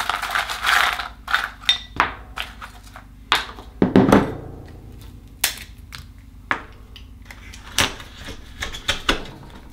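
Akoya oysters being opened by hand: a string of irregular sharp clicks and knocks of shell, with a denser clatter near the start and again about four seconds in.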